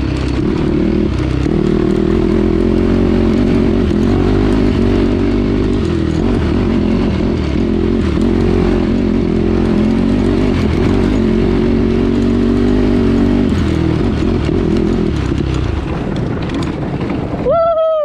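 Yamaha YFZ450 quad's single-cylinder four-stroke engine running under varying throttle. Near the end a brief high-pitched tone rises, then drops quickly, and the sound cuts off.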